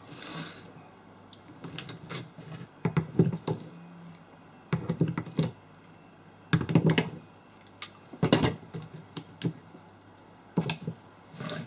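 Irregular clicks, knocks and clatter of small hard objects being handled, in short clusters every second or two.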